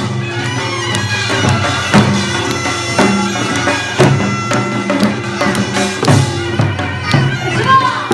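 Korean traditional music: a reedy wind instrument plays a bending melody over a steady drone, with drum strokes about once a second.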